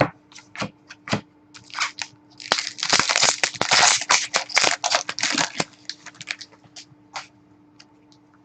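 A trading-card pack wrapper being torn open and crinkled, loudest for about three seconds in the middle, with scattered sharp clicks from the cards and packaging being handled before and after.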